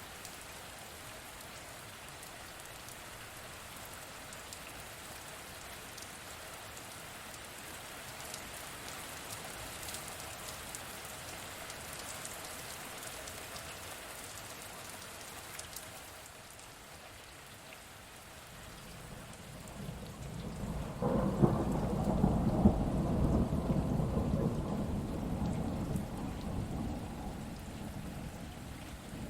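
Steady rain falling, with a roll of thunder that builds about two-thirds of the way in, cracks sharply, then rumbles and slowly fades.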